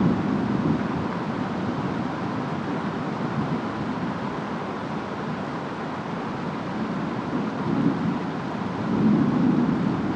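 Steady rain and wind noise of a distant thunderstorm, with low rumbles of thunder swelling at the start and again about nine seconds in.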